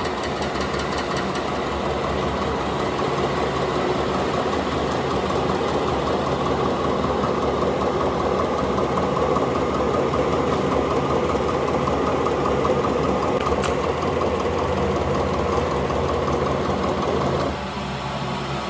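Tyre-factory machinery running with a steady mechanical drone and a fast rattle, dropping slightly in level near the end.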